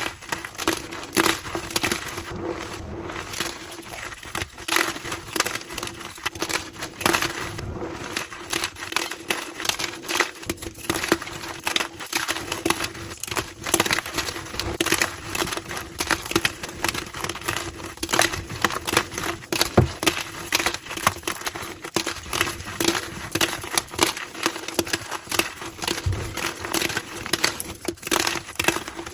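Gym chalk being crushed and crumbled, a dense run of crunchy crackles played back at double speed.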